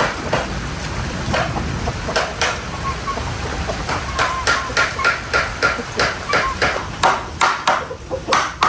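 A series of sharp knocking strikes, a hand tool hitting something hard, coming faster and louder in the second half at about two a second, over a low steady rumble.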